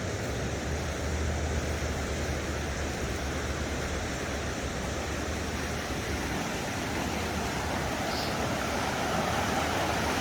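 Swollen, flooded creek rushing past high over its banks: a steady rush of fast-moving water with a low rumble underneath, growing slightly louder near the end.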